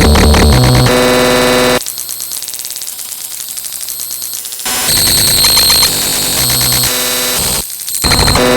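Harsh electronic static and buzzing mixed with steady tones, switching abruptly between different loud noise patterns every few seconds, with a quieter buzzing stretch from about two to four and a half seconds in.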